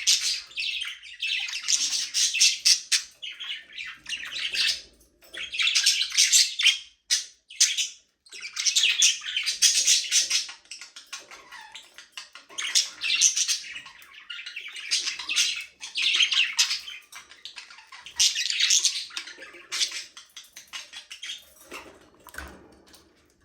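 A flock of budgerigars chattering and chirping in bursts of a second or two with short pauses between, fading out near the end.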